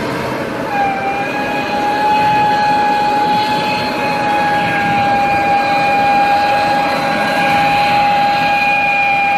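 Heavy truck labouring up a steep grade, its engine noise joined about a second in by a steady high-pitched whine that holds on unchanged.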